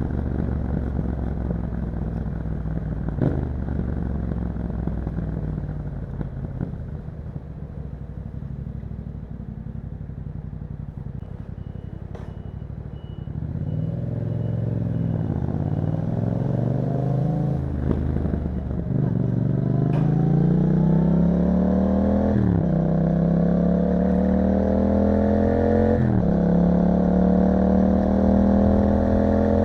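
Yamaha MT-07 motorcycle engine through an Akrapovič exhaust. It runs at low revs for about the first dozen seconds, then accelerates hard through the gears: the pitch rises and drops sharply at each of about four upshifts.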